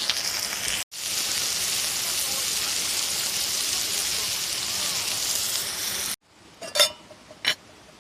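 Steady hiss of rain falling on a tarp, which cuts off about six seconds in. Two sharp clicks follow near the end.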